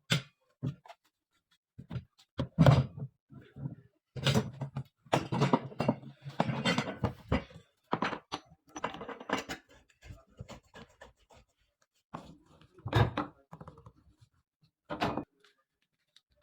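Irregular knocks, clunks and rustling from hands handling and fitting plumbing parts, in uneven bursts with short pauses between.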